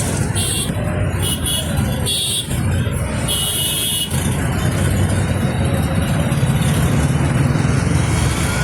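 Road traffic on a bridge: a steady, loud rumble of engines and tyres, with a few short high hissing sounds in the first half.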